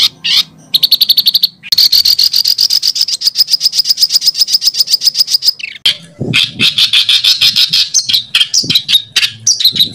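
A songbird's fast rolling trill: a long run of short, high repeated notes, about ten a second. After a brief break it gives a more varied string of quick notes.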